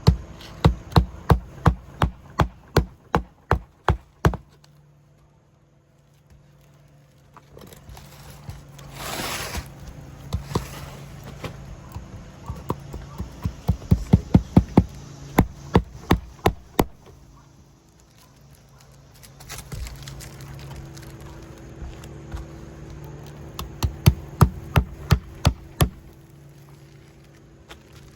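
Hammer blows in three runs of quick, even strikes, about three a second, the first lasting about four seconds. A short hiss comes between the first two runs.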